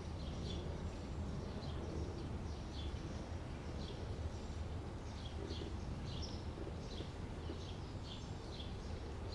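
A bird calling with short, high, downslurred chirps, repeated about once or twice a second, over a steady low rumble.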